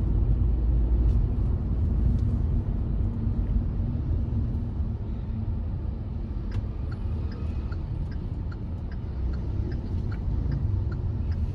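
Hyundai i20 with a 1.2-litre engine driving, heard from inside the cabin: a steady low engine and road rumble. From about halfway through, the turn-signal indicator ticks evenly about twice a second.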